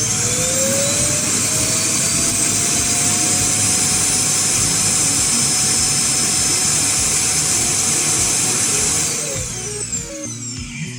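iRobot Roomba i7+ vacuum motor running at full power: a steady high whine over a loud hiss, the whine still climbing in pitch for the first second or two. It winds down with a falling pitch about nine seconds in.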